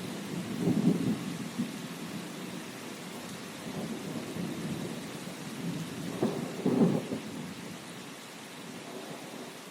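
Steady rain with thunder rumbling low in two swells, about a second in and again around six to seven seconds in, then easing off.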